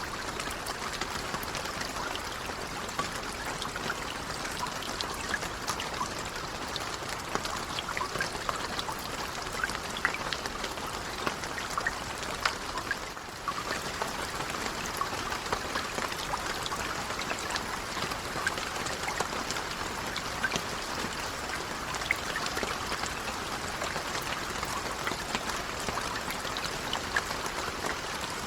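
Steady rain falling, with many individual drops heard as fine ticks over an even hiss; the sound dips briefly about halfway through.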